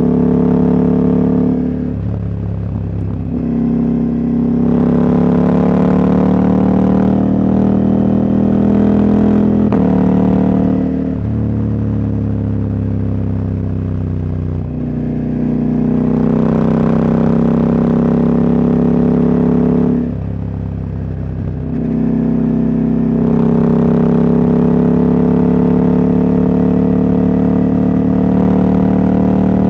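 Husqvarna Norden 901's parallel-twin engine, catalytic converter removed, pulling steadily on the road. The throttle is rolled off briefly three times and the engine note then climbs gently as it picks up again.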